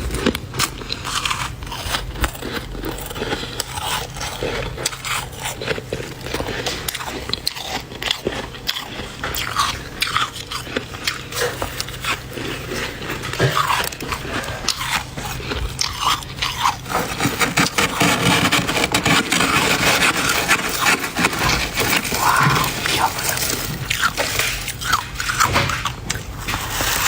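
Spoonfuls of dry, flaky freezer frost being scraped up and bitten, crunching and squeaking between the teeth. The crunching thickens into a steady run about two-thirds of the way in.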